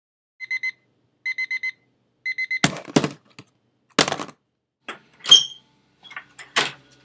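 Digital alarm clock beeping in quick groups of three or four high beeps, about a second apart. The beeping cuts off at a loud knock, followed by several more thuds and knocks.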